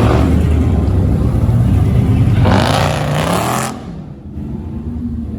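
Truck engine running with a low drone. A louder rush of engine and road noise swells about two and a half seconds in and cuts off about a second later, after which it is quieter.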